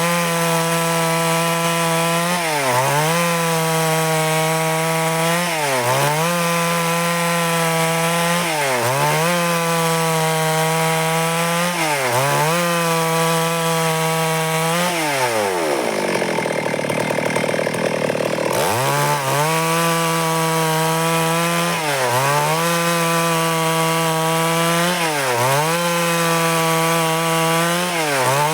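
Stihl MS 382 two-stroke chainsaw running at high speed while cutting wood, its pitch dipping briefly about every three seconds as the load changes, with one longer, deeper dip about halfway through.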